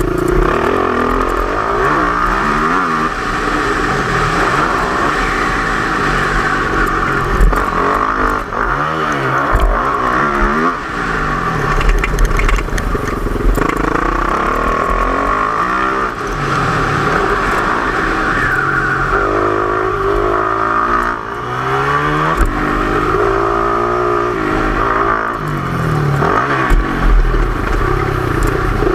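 Yamaha YZ450F four-stroke single-cylinder motocross bike engine revving up and falling back again and again as it is ridden round a dirt track, the rises and drops coming every second or two.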